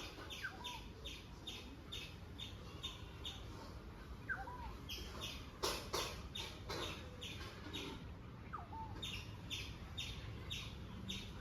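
Birds calling: runs of short high chirps repeated about three a second, broken by brief pauses, with a lower upward-sweeping call heard three times. A couple of brief rustles come near the middle.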